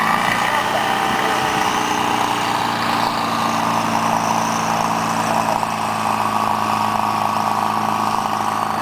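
Radio-controlled model aircraft's engine running steadily at low throttle.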